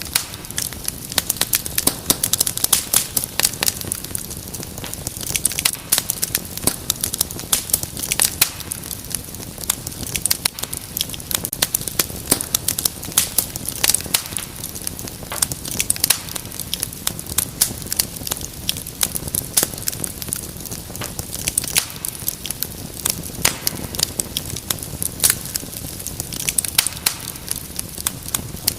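Wood fire crackling: frequent irregular pops and snaps over a low, steady rumble of flame.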